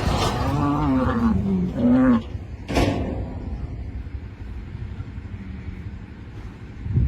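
An animal's long, wavering call for about two seconds, then a single sharp click.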